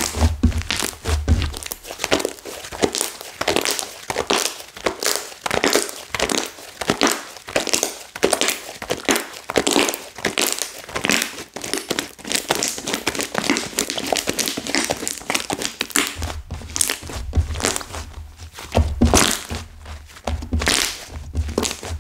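Clay slime that has gone stiff and crunchy as the clay hardened, being squeezed and worked by hand: a dense, continuous crackling and crinkling. Dull low thuds join in about a second in and again over the last few seconds as it is pressed down.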